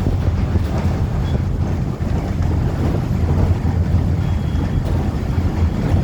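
Wind rumbling on the microphone: a loud, steady low rumble with no break.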